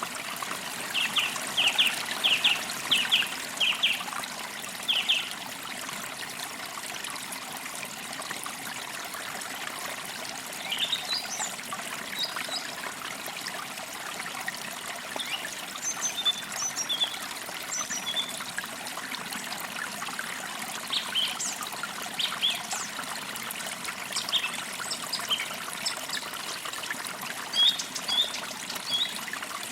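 A small forest creek trickling steadily, with songbirds chirping over it: a run of short repeated notes in the first five seconds, then scattered higher chirps from about ten seconds on.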